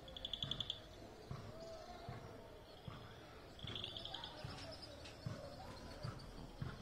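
Birds calling in the surrounding forest: a rapid trill, given twice, and softer whistled notes.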